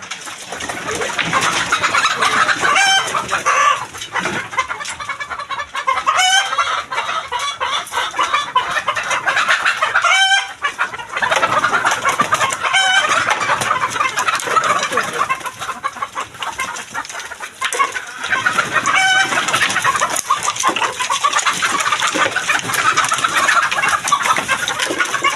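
A flock of chickens clucking and calling in a dense, steady chatter. A louder, longer wavering call stands out about five times, every few seconds.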